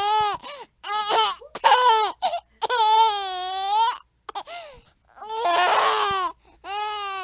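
A baby's high-pitched squealing laughter: about six loud shrieks with short gaps between, the longest held for more than a second, and a rougher, breathier laugh a little before the end.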